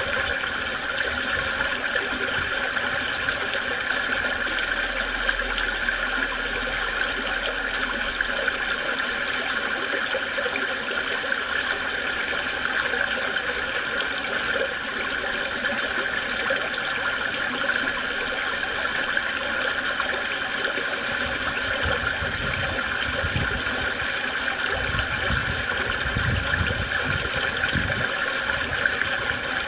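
Creek water babbling, a steady, even rush of flowing water. Intermittent low rumbles join in during the last several seconds.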